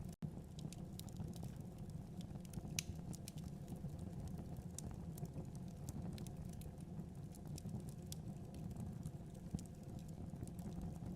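Fire burning in a fireplace: a steady low rumble of flames with scattered sharp crackles and pops, one louder pop a little under three seconds in. The sound cuts out for a split second just after the start.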